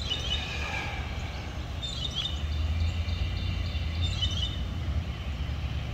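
Small birds giving a short chirping call three times, about two seconds apart, over a steady low hum.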